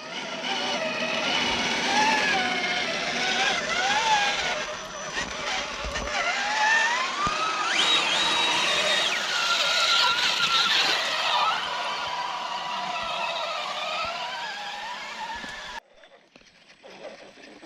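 Electric motors and gearboxes of radio-controlled scale crawler trucks whining, several at once, their pitch rising and falling with the throttle. The sound cuts off abruptly near the end.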